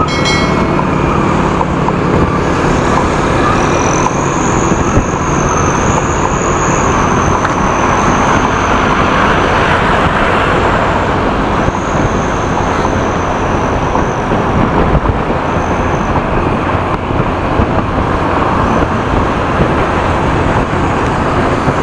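Steady road and wind noise from a motorcycle riding in traffic, the engine running beneath it. A faint high whine comes and goes in the middle.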